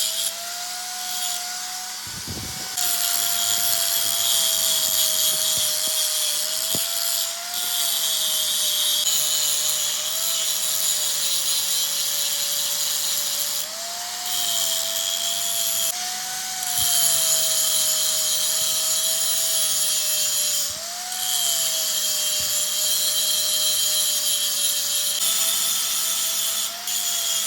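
Electric power tool running on metal with a steady high hiss, its motor pitch dipping and recovering every few seconds as it is pressed into the work.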